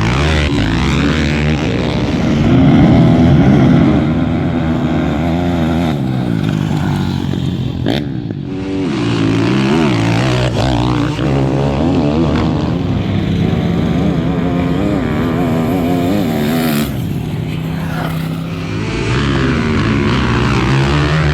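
Racing dirt bike and ATV engines revving hard as they accelerate down a drag strip, their pitch climbing and dropping repeatedly with gear changes. The sound breaks off abruptly and starts again about 8 seconds in and again around 17 seconds in.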